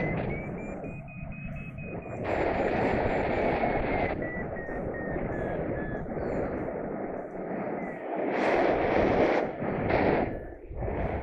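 Wind buffeting the microphone in flight, in gusts that rise and fall. A faint thin electronic tone slides slowly up and then down through the first half.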